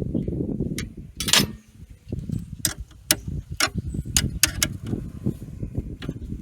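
Scattered sharp metallic clinks and taps of hand tools and metal parts being handled, with one louder ringing knock about a second in, over a low rumbling noise.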